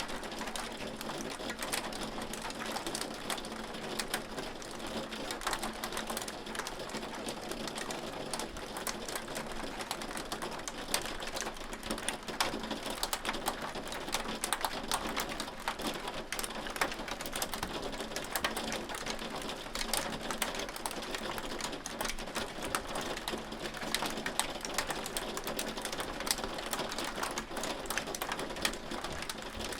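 Hailstones falling and striking a hard surface: a dense, irregular patter of sharp clicks over a steady hiss.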